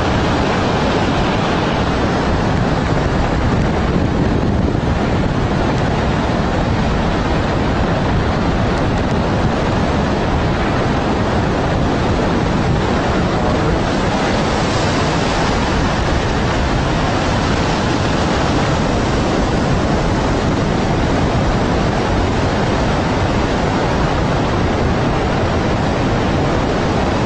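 Tsunami floodwater rushing: a loud, steady wash of water noise with no letup.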